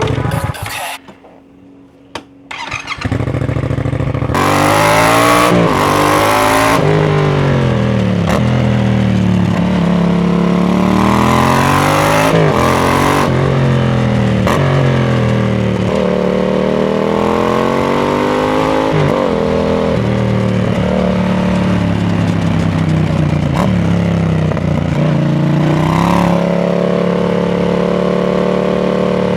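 Yamaha MT-07's parallel-twin engine through an aftermarket RoadsItalia titanium exhaust, starting up about three seconds in after a brief quiet gap. It is then revved up and down repeatedly, and settles to a steadier note near the end.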